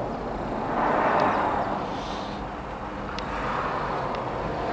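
Outdoor traffic noise: a passing vehicle swells and fades about a second or two in, over a steady low background rumble.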